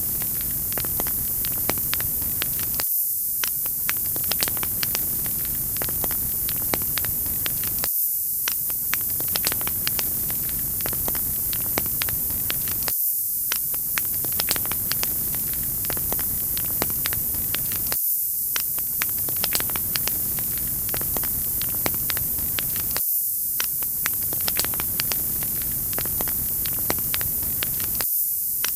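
Wood fire crackling with many sharp pops over a steady high hiss. The fuller sound underneath drops out for an instant about every five seconds, as a short recording loops.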